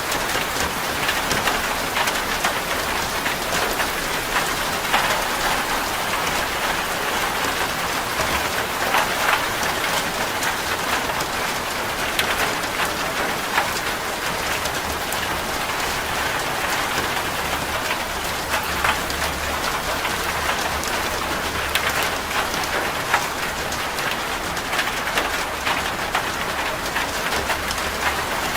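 Steady heavy rain drumming on a corrugated zinc roof: a dense hiss of rain dotted with many sharp, tinny drop impacts on the metal sheets.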